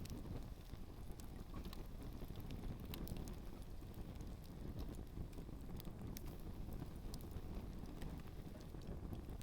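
Campfire with shoes burning in it, crackling with scattered sharp pops over a steady low rumble.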